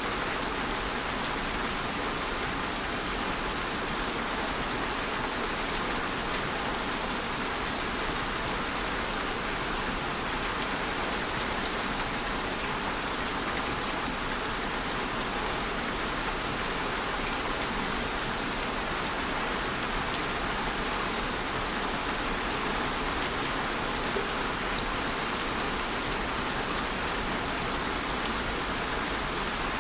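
Steady rainfall, a constant even hiss of rain with scattered faint drop ticks.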